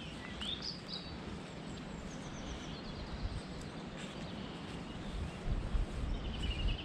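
Songbirds chirping and trilling over a steady outdoor background, with a low rumble on the microphone that swells near the end.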